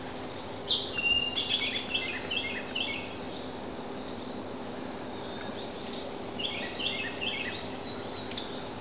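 A songbird singing two phrases of quick, high chirping notes that step down in pitch, a few seconds apart, over a faint steady background hum.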